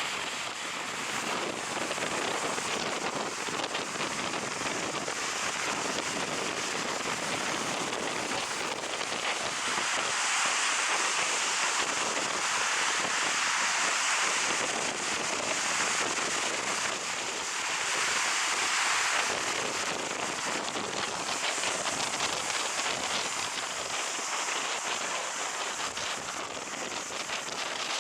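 Strong wind rushing over the microphone together with the surf of a stormy sea, a steady roar that swells and eases.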